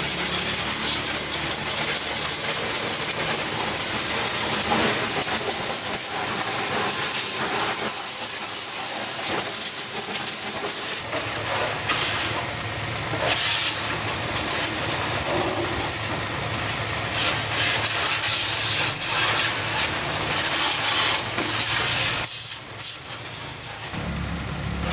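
Steady loud hissing noise that dips briefly twice in the second half.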